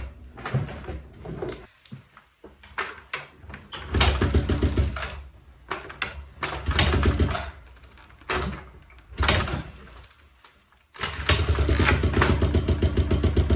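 Kawasaki KLX dirt bike's single-cylinder engine being started cold without a choke: it catches in short bursts that die out several times, then runs with an even beat for about three seconds from about 11 seconds in.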